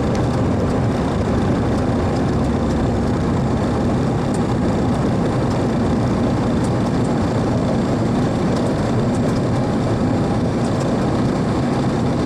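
Steady flight-deck drone of a Boeing 737-300 with its CFM56 engines at idle, with air rushing through the cockpit, a low hum and a faint high whine.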